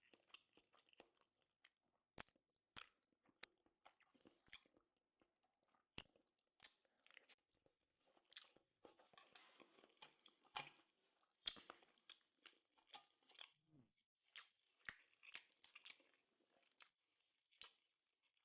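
Faint close-up chewing: a person eating, with sparse soft crunches and wet mouth clicks at irregular intervals.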